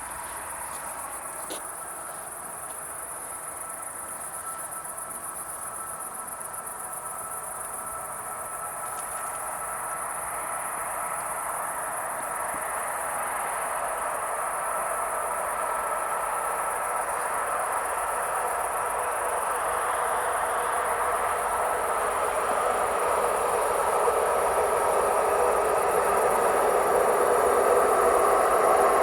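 Insects chirring steadily and high-pitched, while an approaching train grows steadily louder through the second half, its rumble and rail hiss swelling.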